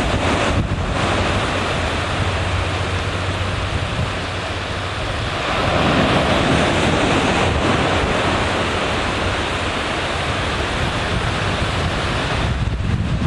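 Surf washing onto the beach, with wind buffeting the microphone; the wash swells louder about halfway through.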